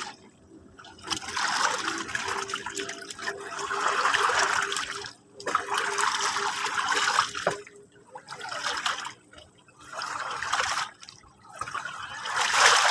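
Small sea waves washing in and drawing back, with about four surges of water noise each lasting a couple of seconds and brief lulls between them.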